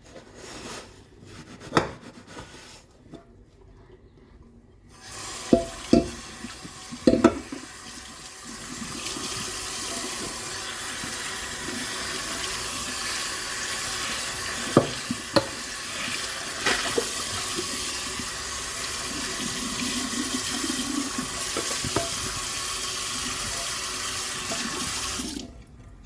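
Kitchen tap running into a sink for about twenty seconds while dishes are rinsed, with sharp knocks of dishes against each other or the sink now and then. Before the tap comes on there are a few seconds of light handling clicks, and the water cuts off suddenly near the end.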